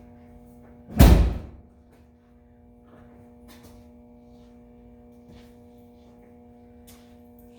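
A single loud slam about a second in that dies away within half a second, over a steady hum.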